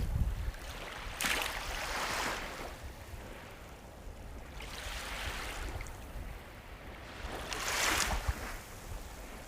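Sea waves breaking and washing up the shore, with two louder hissing wash-ins about six seconds apart over a steady low surf rumble.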